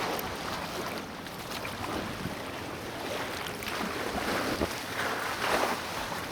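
Water splashing and sloshing around a small inflatable packraft on the sea in irregular swells about once a second, with wind buffeting the microphone.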